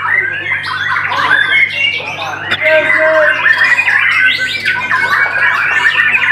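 White-rumped shama (murai batu) singing without pause: a fast, varied run of loud whistles, chirps and rattling phrases, over a steady low hum.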